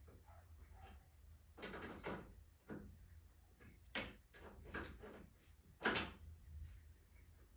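Scattered knocks and clinks of hand work on a garage door torsion spring assembly, about five separate strikes with short gaps between them.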